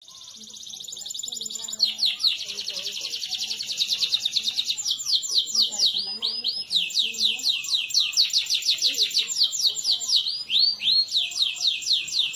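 Male domestic canary singing: long, fast rolling trills of repeated high, downward-sliding notes, broken now and then by a few slower sweeping notes. The song fades in over the first two seconds.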